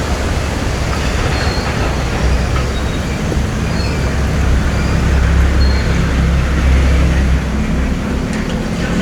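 A boat's engine running steadily: a loud, low rumble under a broad wash of noise, a little stronger through the middle.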